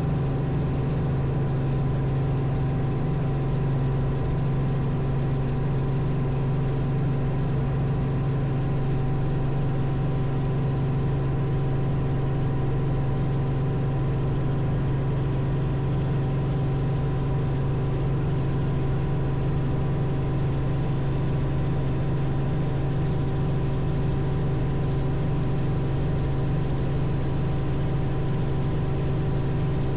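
Robinson R44 helicopter's piston engine and rotors running steadily, a constant drone with a strong low hum and a few steady higher tones over it, heard from inside the cabin.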